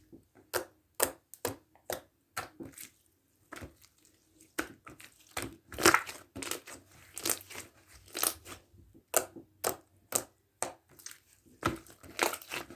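Glitter foam-ball slime (floam) being squeezed and pressed by hand, its foam beads giving off an irregular run of sharp crunchy crackles and pops, a few a second, loudest about halfway through.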